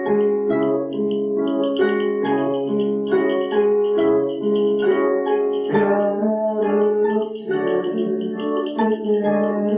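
Acoustic guitar playing an instrumental passage of a song, picked notes ringing in a steady pattern of about two attacks a second.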